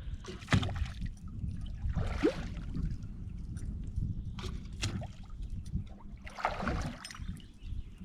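Rowboat being rowed: oars dipping and splashing in the water with a stroke about every two seconds, and short knocks from the oars working in their locks.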